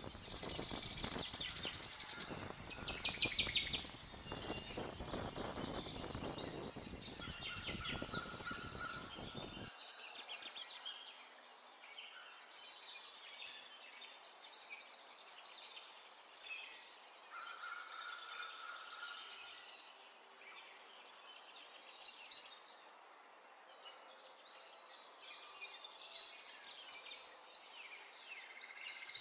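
Small birds chirping in quick, high trills, over and over, with short pauses between phrases.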